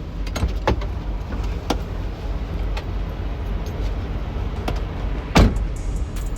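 Semi truck's diesel engine idling steadily, with scattered knocks and one loud bang about five and a half seconds in as the trailer's rear swing doors are unlatched and opened.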